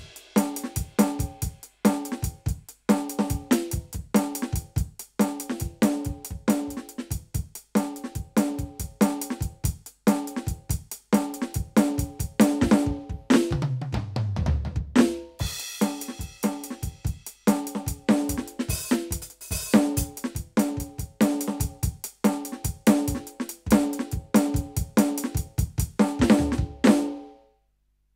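Roland TD-17KVX V-Drums electronic drum kit playing a steady beat of kick, snare and hi-hat. About halfway through comes a tom fill falling in pitch, leading into a cymbal crash. The beat then carries on and stops just before the end, the last hit dying away.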